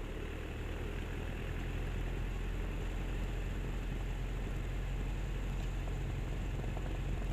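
Cessna 172M's four-cylinder Lycoming engine running steadily through the takeoff run, a low, even drone with a light hiss over it.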